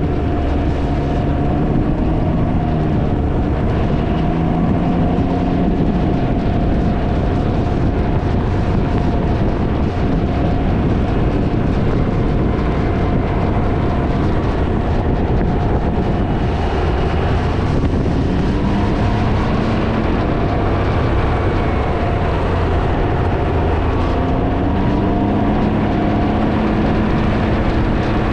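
Heavy wind noise on the microphone over a Can-Am Ryker three-wheeler's engine running at road speed, its note rising and falling several times.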